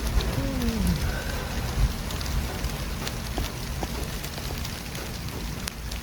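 City street traffic ambience: a steady low rumble of vehicles under a hiss of noise, with scattered faint clicks. There is a brief falling tone in the first second.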